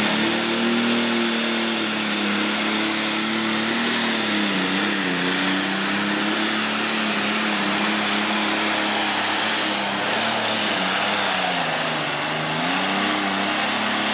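Super stock pulling tractor's turbocharged engine running at full power under load, with a steady high whine over the engine. The engine pitch wavers and sags about twelve seconds in, then picks back up.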